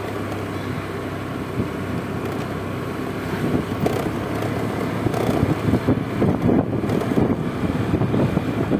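Honda Vario 125 scooter on the move, its single-cylinder engine running steadily under a low rumble of wind buffeting the microphone, which grows louder about halfway through.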